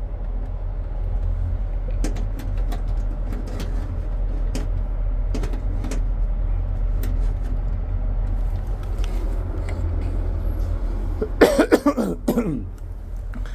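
A steady low hum with scattered light clicks and taps of handling. Near the end comes a person's short cough-like vocal sound.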